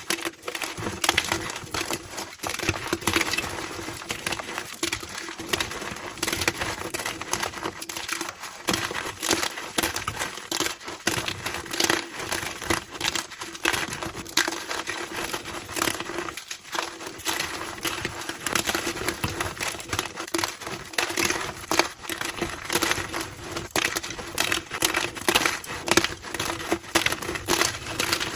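Blocks of gym chalk being crushed and crumbled, a dense, continuous stream of crunchy crackles, sped up to double speed.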